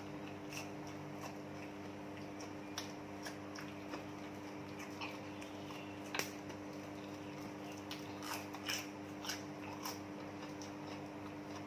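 Light, irregular clicks and taps of kitchen utensils, the sharpest about six seconds in, over a steady low hum.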